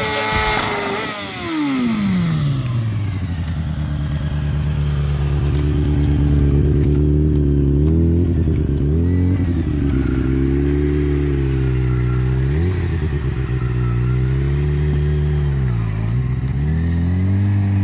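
Inline-four sport motorcycle engine held at high revs, then the revs fall away over a couple of seconds and it settles into a low, even idle. Several short throttle blips lift the pitch briefly before it drops back to idle.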